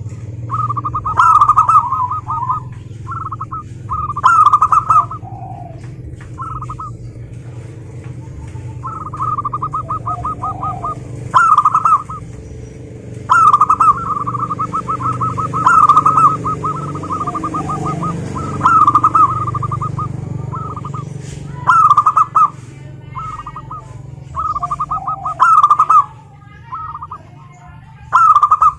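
Zebra doves (perkutut) singing: repeated phrases of rapid, pulsing cooing notes, each a second or two long, coming every few seconds over a steady low hum.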